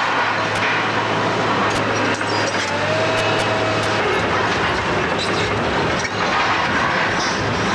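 Heavy demolition machinery at work: a diesel engine's steady hum under continuous crunching and clattering of rubble, with a brief metal squeal about three seconds in.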